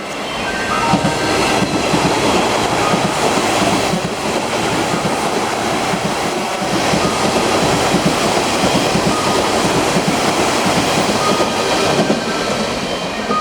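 Kintetsu electric train running through the station at speed without stopping, its wheels clattering over the rail joints.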